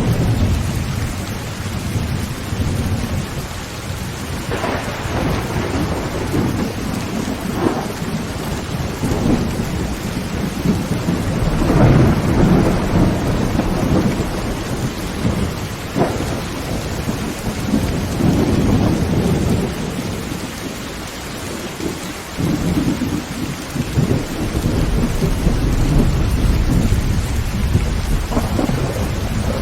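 Heavy rain beating steadily on a tin tent roof while thunder rumbles in repeated rolling swells, with a couple of sharper cracks, one about eight seconds in and one about halfway through.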